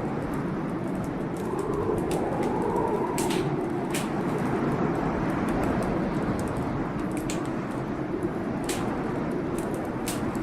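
Wood fire crackling in a fireplace, with frequent sharp irregular pops, over a steady low roar of a storm.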